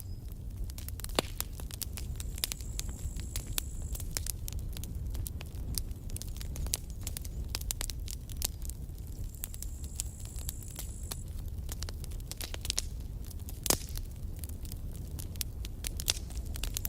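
Campfire burning: wood crackling with many sharp pops over a steady low rumble of the flames. A louder pop comes about a second in and a louder one still about two-thirds through. A high, thin hiss comes and goes three times.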